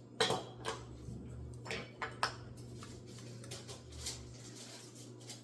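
Kitchen dishes and utensils being handled: about four sharp clinks and knocks in the first two and a half seconds, then quieter handling, over a steady low hum.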